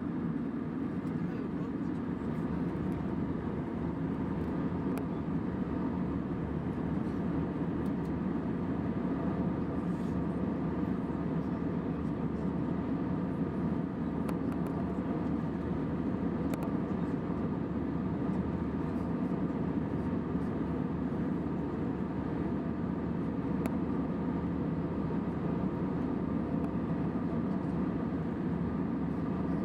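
Steady cabin noise of an Airbus A320 in flight: the even roar of the engines and airflow, with a faint steady hum above it.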